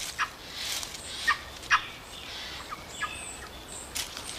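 A scatter of short, sharp chirp-like animal calls, about six over four seconds, with a few faint high thin whistles near the middle, over steady forest ambience.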